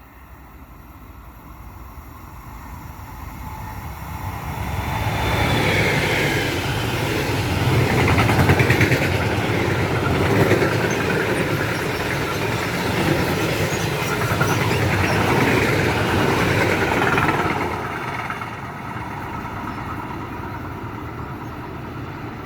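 A train passing: the sound builds from about two seconds in, stays loud through the middle, then drops to a steadier, lower rumble near the end.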